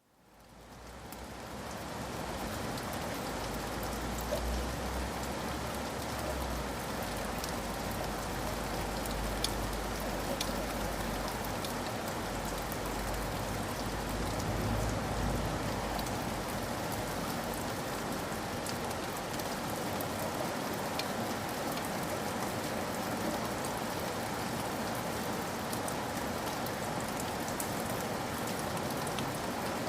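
Steady rain, fading in from silence at the start, with scattered sharp drop ticks and a low rumble under it through the first half.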